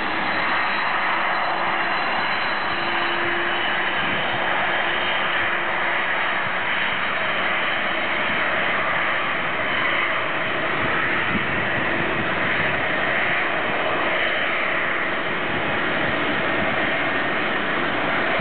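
Boeing 747-400's four turbofan jet engines running at low taxi thrust, a steady loud rush.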